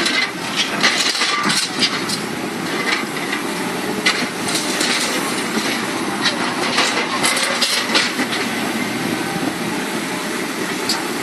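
Heavy demolition excavator at work on a concrete bridge: its engine runs steadily under an irregular series of sharp cracks and clatters from concrete being broken and debris falling.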